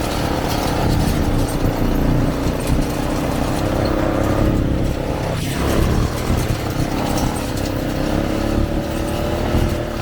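ATV engine running at a steady pace while riding, its pitch drifting slowly upward, with wind buffeting the microphone.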